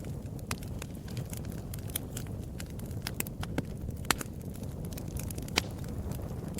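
Wood fire in a fireplace crackling: irregular sharp pops over a steady low rumble of burning. The loudest pops come about four and five and a half seconds in.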